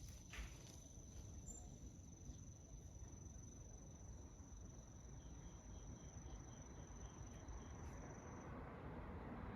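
An insect trilling one steady, high-pitched note that stops about a second before the end, over a faint low rumble of outdoor background noise.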